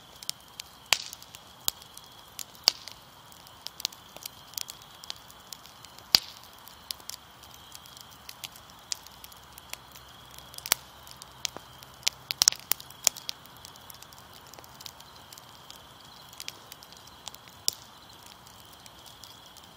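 Fire crackling with irregular sharp pops and snaps, a few much louder than the rest, over a faint steady hiss.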